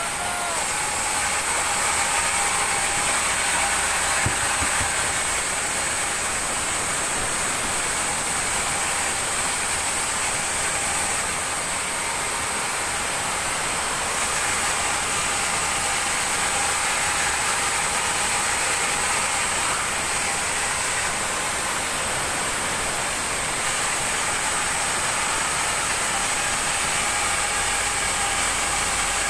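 Sawmill machinery running steadily: a dense, even mechanical noise with a constant high whine.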